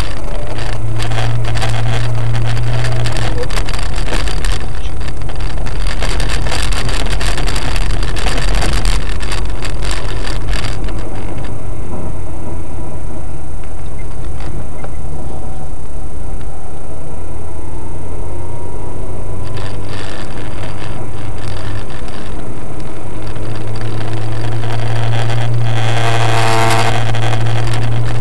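Car engine and road noise as recorded by a dashcam, a loud, steady low rumble, with a short pitched sound near the end.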